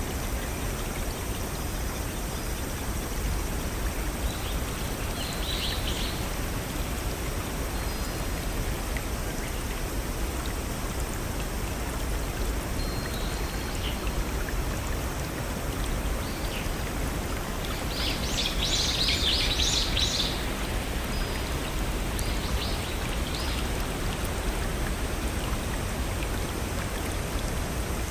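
Steady rush of flowing water from a small forest waterfall and brook, with birds chirping over it: a few brief chirps about five seconds in and a louder burst of rapid chirping about two-thirds of the way through.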